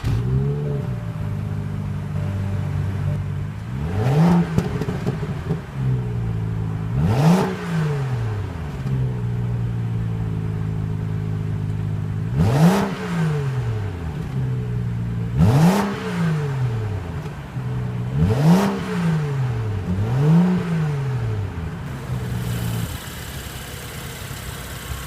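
BMW 435i's turbocharged 3-litre inline-six idling, blipped six times so the pitch rises sharply and falls straight back each time. Near the end the idle settles lower and quieter.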